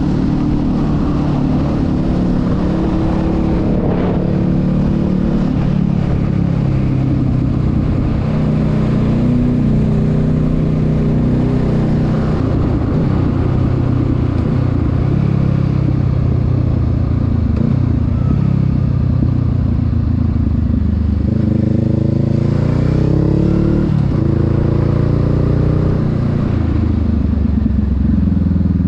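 Honda Rebel 500's parallel-twin engine running under way, its pitch shifting with the throttle through the bends. About three-quarters of the way through the engine note climbs steadily for a couple of seconds as the bike accelerates, then falls back.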